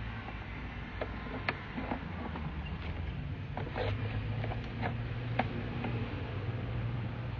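Pipe-inspection camera rig being worked in a storm-water line: a steady low hum with scattered irregular clicks and taps, a few a second at most.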